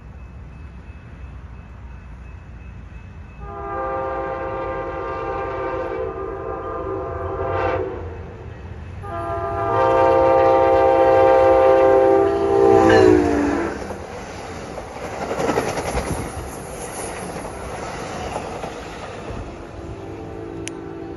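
Train horn sounding two long blasts of a several-note chord, the second dropping in pitch at its end as the train goes by, followed by the rumble and wheel clatter of the train passing. Near the end a fainter horn chord sounds again.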